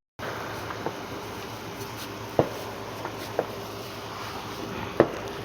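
Three short sharp pops of firework bangs over steady outdoor background noise, the last about five seconds in the loudest.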